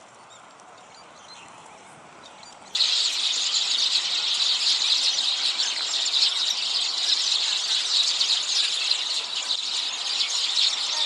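Dense, loud chorus of a large flock of birds calling all at once, starting abruptly about three seconds in and running on without a break.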